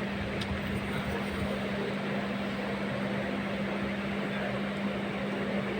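Passenger train heard from inside the coach: a steady running rumble with a constant low hum.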